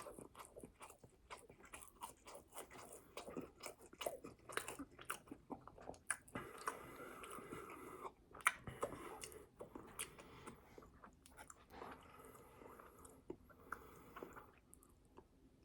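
Close-miked eating: a person biting and chewing food, with many irregular sharp wet mouth clicks and crackles.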